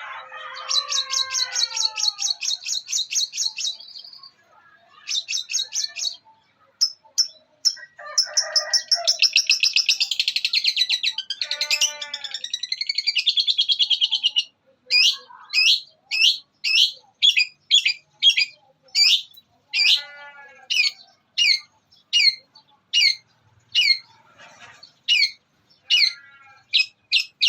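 Long-tailed shrike singing a varied mimicry song, including the calls of fighting sparrows. First come rapid chattering trills, then a dense buzzy chatter about nine seconds in, then a long run of sharp, down-slurred chirps at about two a second.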